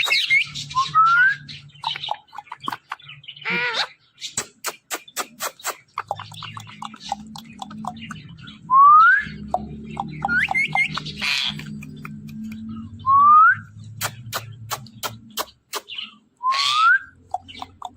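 Ringneck parakeet giving short rising whistles every few seconds, among many sharp clicks.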